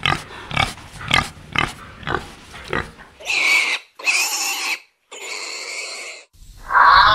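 Pig grunting, short grunts about two a second, then three longer, higher-pitched calls of about a second each. Music comes in near the end.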